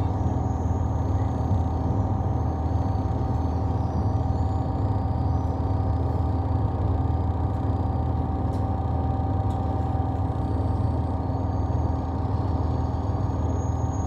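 Train running, heard from inside the passenger car: a steady low rumble with a constant hum above it.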